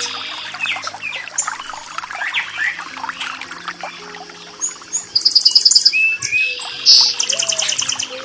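Songbirds chirping and singing, with two loud rapid trilled phrases, one a little past the middle and one near the end, over a steady wash of running water.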